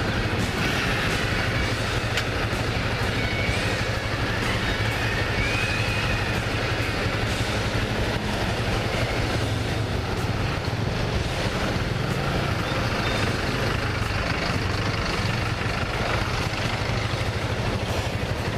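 Yamaha Fazer 250 single-cylinder motorcycle running steadily on the move, with wind and road rush over the rider's microphone.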